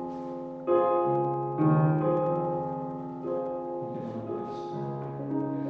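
Piano playing slow chords, each struck and left to ring and fade before the next: a new chord about a second in, another soon after, and further chords later on.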